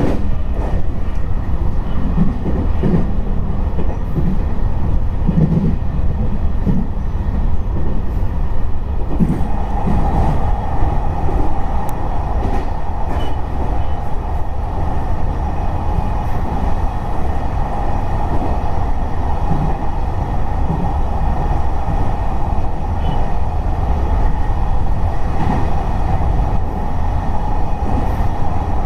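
Electric multiple-unit train running along the line, heard on board as a steady low rumble of wheels on rail, with soft knocks over the rails in the first few seconds. A steady whine comes in about ten seconds in and holds.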